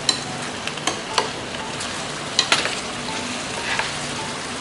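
Spicy chicken hot pot sizzling in its pan as it is stirred, the stirring utensil clicking against the pan several times.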